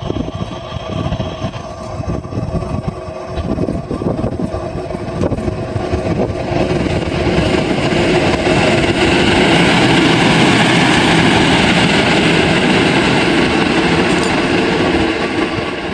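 A train passing on the rails: a rumbling run of wheels that builds from about six seconds in to a loud, steady rush of wheel-and-rail noise, easing slightly near the end.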